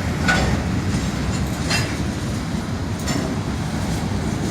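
Freight train cars rolling past at a road crossing: a steady low rumble with three short clanks about a second and a half apart.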